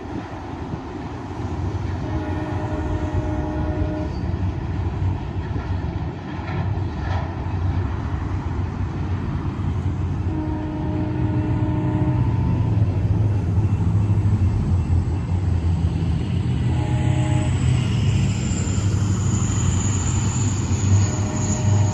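A train horn sounds the grade-crossing signal (long, long, short, long) as a diesel locomotive approaches, its low engine rumble growing steadily louder.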